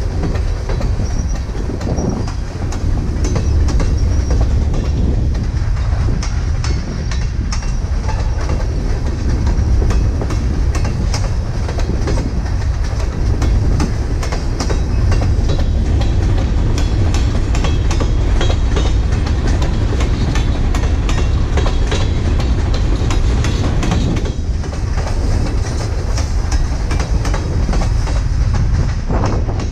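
Railcars of a Kansas City Southern ballast train rolling past at close range: a steady, loud rumble with continuous clicking of wheels over the rails.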